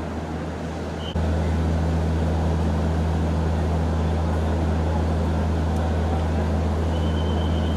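Steady low drone of a stationary train's power equipment idling at a platform, over a haze of station noise. It steps up in level about a second in, then holds steady.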